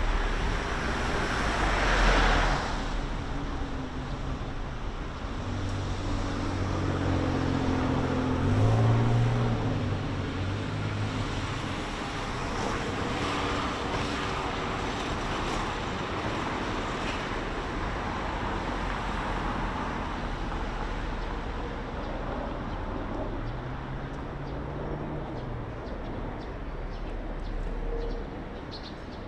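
Road traffic: a steady hum of cars passing, with one vehicle's engine rising in pitch and passing close by near the middle of the stretch.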